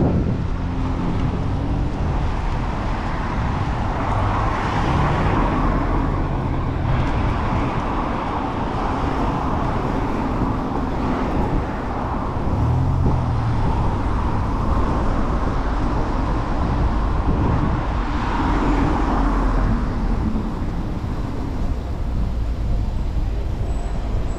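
City street traffic heard from a moving bicycle: vehicles passing, their tyre and engine noise swelling and fading several times over a steady low rumble.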